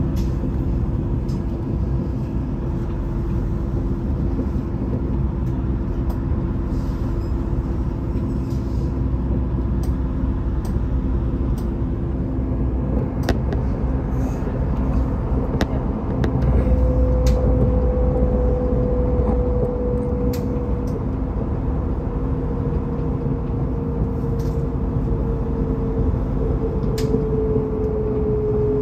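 Vy electric passenger train running on the rails: a steady low rumble and hum, with scattered short clicks. About halfway through it gets a little louder, and a motor whine sets in that slowly falls in pitch.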